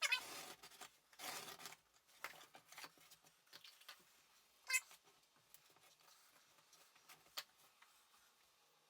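Craft knife cutting a card brick strip: two short scraping strokes near the start, then light clicks and taps as the card and knife are handled, with two sharper ticks later on.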